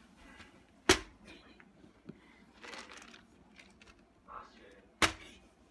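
Two sharp knocks about four seconds apart, with faint rustling between them.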